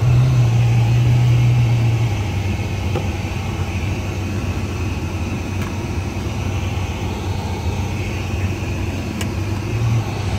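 Ferrari F12berlinetta's V12 engine idling, heard from inside the cabin: a steady low hum, higher and louder for about the first two seconds before dropping to a lower idle, with a short rise near the end.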